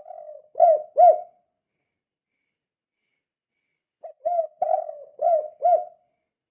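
Spotted dove (tekukur) cooing: the end of one phrase, then after about three seconds of silence a full phrase of several coos, each phrase closing on two loud arched notes.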